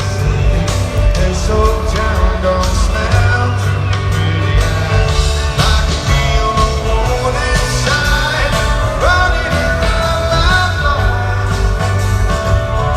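Live rock band playing a song with singing, loud over the festival PA.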